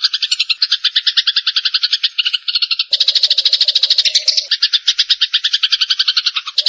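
Eurasian tree sparrow calls: a fast, unbroken run of harsh chirps, about a dozen a second. About three seconds in, a second overlapping layer of chatter comes in and thickens the sound.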